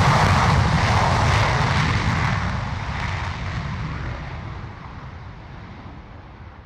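F-35A Lightning II fighter jet's engine noise as the jet departs: a loud rushing rumble that fades steadily over several seconds, the high hiss dying away first and the low rumble lingering.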